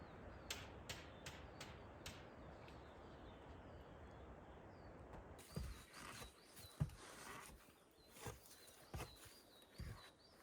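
Quiet outdoor ambience: a few sharp clicks in the first two seconds, then, after an abrupt change about halfway, irregular soft thumps with small bird chirps behind them.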